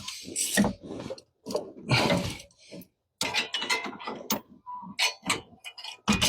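Hand tools working on a truck engine: a run of irregular metallic clicks, knocks and clanks with short pauses between them.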